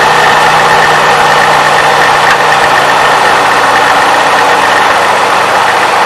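2007 Toyota 3.5-litre V6 idling just after a cold start, with a light clacking from the valve timing advance mechanism, which the owner calls normal for these engines in the first minute. A steady high-pitched whine runs along with the idle.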